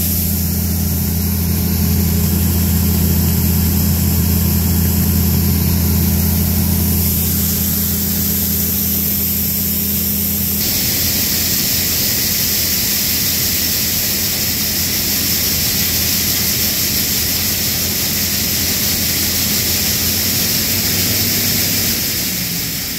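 Heavy diesel farm machinery engine running steadily during corn harvest, with a hiss that grows brighter about ten seconds in.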